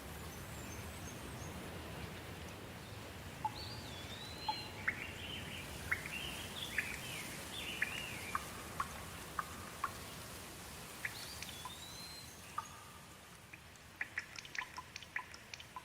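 Soft rain falling as a steady hiss, with a bird singing a run of short chirps and whistled calls through the middle. Toward the end the hiss fades and separate water drops tick down one by one.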